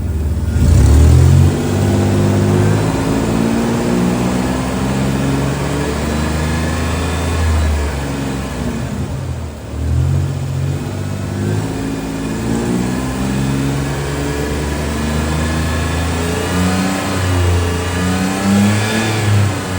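1996 Toyota 4Runner's 3.4-litre V6 engine running on a test, revved up and let back down several times. The pitch climbs about a second in, sinks briefly past the middle, then rises again a few more times near the end.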